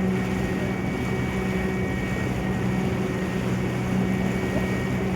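Ferry's engine running steadily: an even low hum with a faint high whine over water and wind noise.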